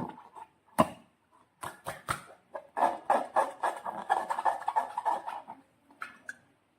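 Slime being squished and handled by hand: a run of irregular wet crackles and squelches with a few sharp clicks, densest in the middle and stopping a little after six seconds.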